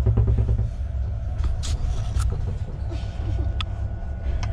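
Steady low rumble of a sleeper train carriage running on the rails, heard from inside a berth, with a few sharp clicks and rattles scattered through it.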